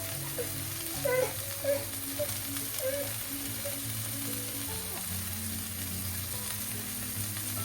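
Food sizzling steadily in a frying pan, under background music with slow held notes.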